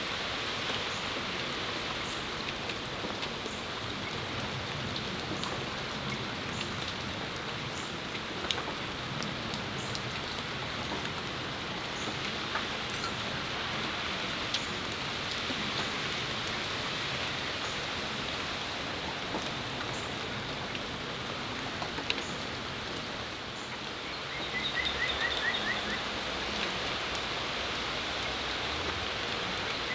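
Steady spring rain falling on a patio: an even hiss with scattered drips ticking close by. Near the end a bird gives a quick run of short, slightly falling chirps.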